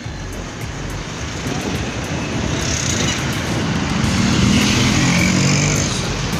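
A road vehicle passing, engine and tyre noise growing louder to a peak about four to five seconds in, then easing a little.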